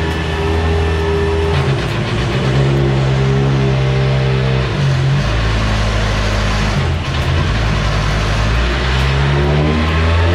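Car engine running hard and revving on a dyno, its pitch holding steady and then stepping abruptly up and down several times.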